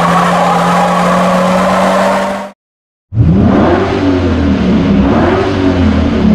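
Car engines at high revs, in two separate bursts. The first engine note is held steady at high revs and cuts off abruptly. After a brief gap, a second car engine revs, its pitch rising and falling, and stops near the end.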